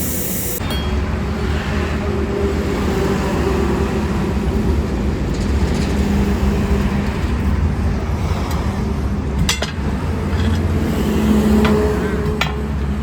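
A steady low motor hum, with a few sharp metallic clicks near the end.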